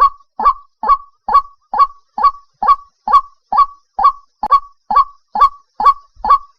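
White-breasted waterhen calling, one short note repeated at a steady pace of a little over two a second, each note sliding up and then down.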